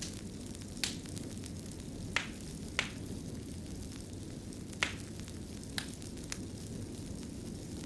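Wood fire burning in a fireplace: a steady low rumble with sharp crackling pops at irregular intervals, about six of them.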